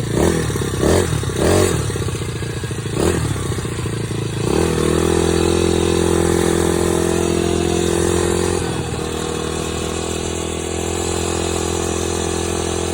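Dirt bike engine blipped several times in quick rises and falls of pitch, then about four and a half seconds in it climbs to higher revs and holds a steady note as the bike rides on.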